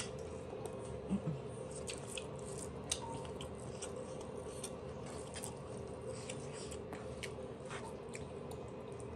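A person chewing a mouthful of rice and fish paste eaten by hand, with soft wet smacks and clicks scattered throughout, and fingers squishing rice on the plate. A steady low hum runs underneath.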